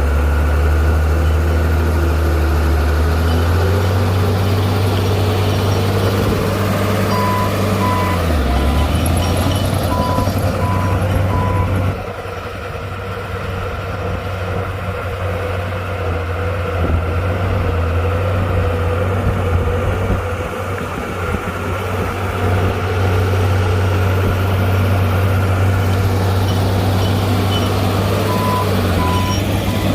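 Heavy diesel earthmoving machinery running: a bulldozer and dump truck engine drone that shifts in pitch a few times. A reversing alarm beeps about twice a second for a few seconds partway through and again near the end.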